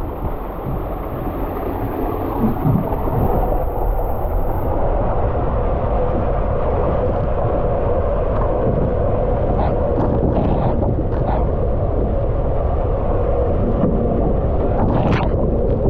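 Water rushing and rumbling down the Triple Tornado water slide, a steady low rumble that builds slightly, with a few short splashes or knocks in the second half.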